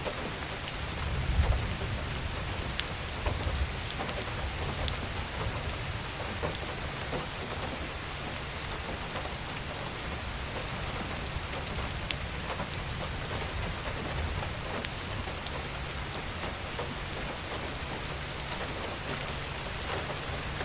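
Steady rain falling on a garden, a continuous patter with many distinct drops striking close by. A brief low rumble swells about a second and a half in and fades by about four seconds.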